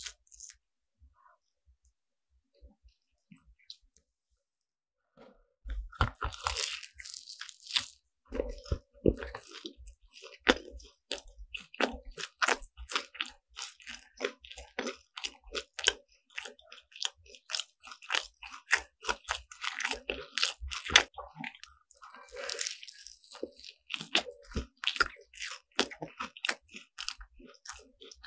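Biting into and chewing a crisp croffle. After about five nearly quiet seconds comes a dense, continuous run of crunches and crackly chewing.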